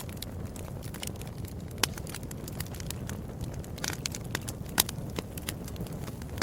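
Wood fire crackling: a steady low rumble of burning with many irregular sharp pops and snaps, the loudest about two seconds in and near five seconds.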